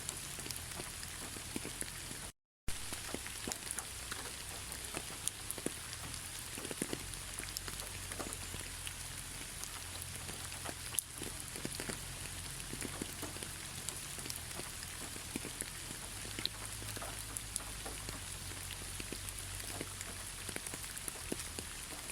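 Steady rain falling, with a dense patter of individual drops landing on a surface. The sound cuts out completely for a fraction of a second about two seconds in.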